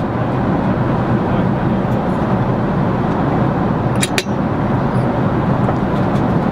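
Steady, loud rumble of a vehicle in motion, with one sharp click about four seconds in.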